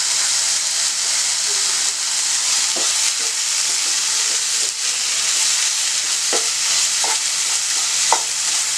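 Minced chicken stuffing sizzling as it dry-fries in a nonstick pan, with a steady hiss. A wooden spatula stirs it, scraping the pan in several short strokes, most of them in the second half.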